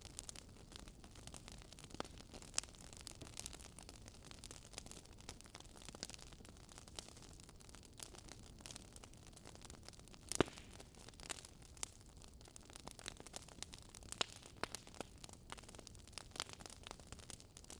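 Wood fire crackling: a soft steady hiss with irregular small pops and snaps, one sharper pop about ten seconds in.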